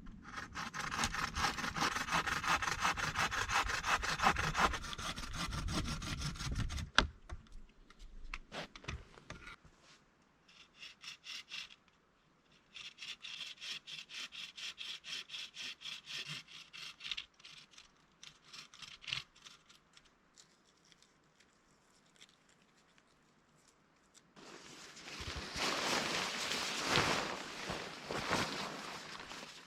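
Hand saw cutting wood in rapid back-and-forth strokes, in several spells separated by pauses, with a louder, rougher spell near the end.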